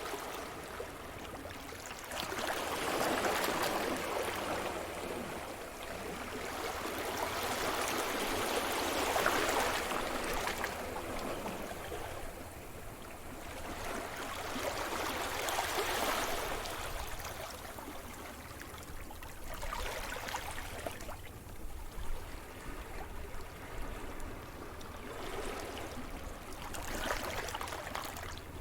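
Sea surf: waves breaking and washing up the shore, a rush of water that swells and falls back in repeated surges a few seconds apart, over a steady low rumble.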